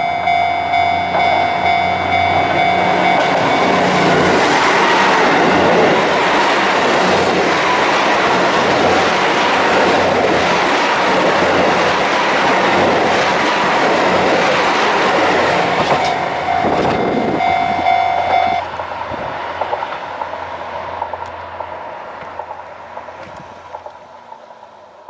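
Japanese railway level-crossing alarm bell ringing in quick repeated strokes while a Hida limited express diesel train passes over the crossing, its wheels clattering over the rail joints. The bell stops suddenly about three-quarters of the way through, and the train's rumble fades away as it moves off.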